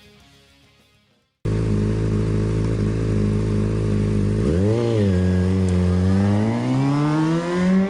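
Background music fades out, then after a brief silence a motorcycle engine cuts in suddenly, running at a steady idle. About halfway through it blips once in a quick rise and fall, then revs up steadily near the end.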